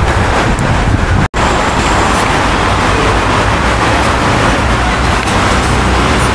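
BMW M5 F10's twin-turbo V8 running steadily at low revs as the car rolls slowly forward, with no revving. The sound cuts out for an instant about a second in.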